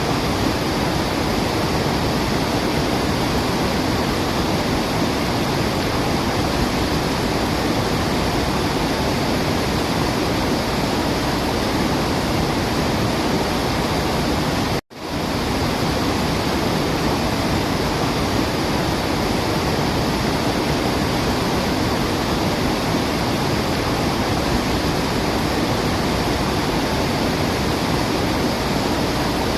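Steady rushing of a waterfall, an even full-bodied roar of falling water, cut by a split-second dropout to silence about halfway through.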